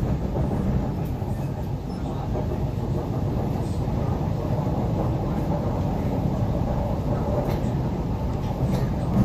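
MTR C-Train electric metro train running, a steady rumble of wheels and motors on the track.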